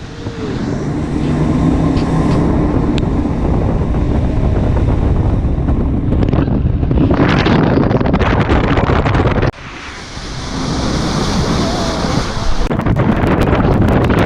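Jet boat running at speed on the river, its engine noise mixed with rushing water and wind buffeting the microphone. The noise drops off suddenly about nine and a half seconds in, builds back up, and the wind buffeting grows harsher near the end.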